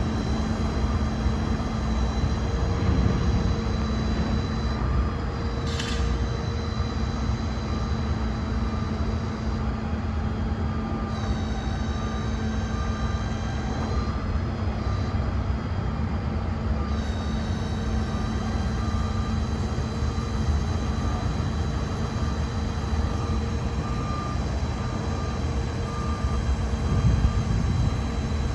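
Bucket truck running steadily, a low engine hum under a high whine that shifts pitch a couple of times, with one brief sharp squeak early on.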